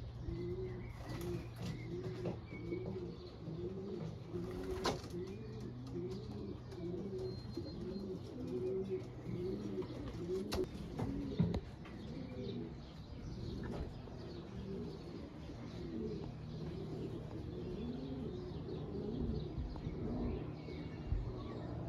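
Racing pigeons cooing in the loft: many overlapping coos repeating without pause, with a few sharp clicks.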